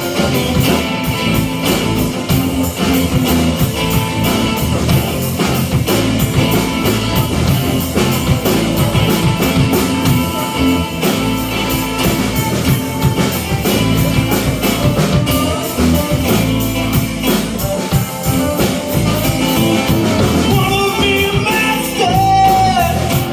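A rock band playing an instrumental passage between sung verses: electric guitar, bass and a drum kit with a steady cymbal beat. Near the end a short sliding note comes in over the band.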